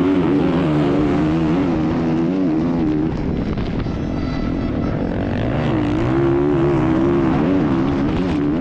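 Dirt bike engine revving up and down while riding, easing off about three seconds in and picking up again near six seconds.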